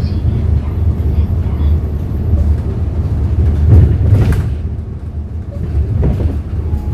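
Hyundai Green City CNG city bus's natural-gas engine running under way, a steady low drone. A brief loud rush of noise comes about four seconds in.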